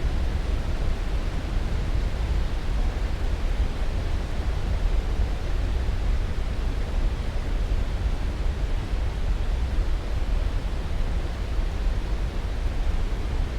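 Steady, deep rushing noise of the kind played as white noise for sleep. It is even and unchanging, with most of its weight in the low end.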